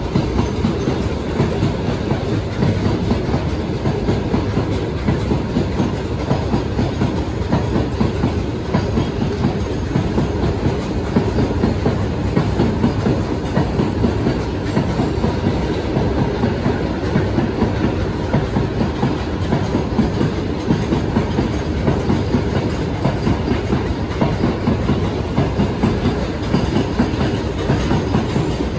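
Freight train wagons rolling past on the track: a steady, unbroken rumble with rapid repeated wheel knocks throughout.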